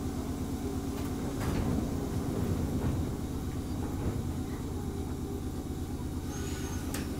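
Inside a Gakunan Railway 7000-series electric railcar (ex-Keio 3000 series) standing at a station: a steady low hum from the car, with a few knocks and clicks, one about a second in and another near the end.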